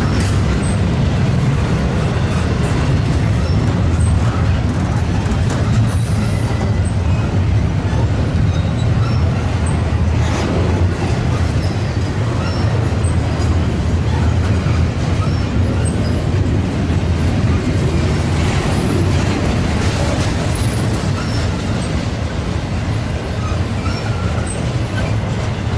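Intermodal freight train's double-stack well cars and trailer cars rolling past: a steady, low rumble of steel wheels on rail, with a few sharper clanks scattered through it.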